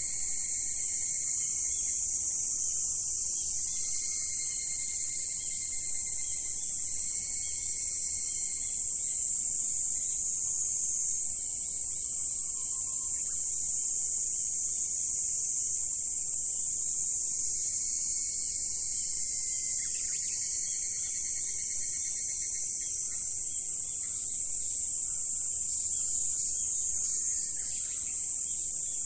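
A dense, high-pitched chorus of insects shrilling steadily, with a lower, softer insect tone coming and going every few seconds.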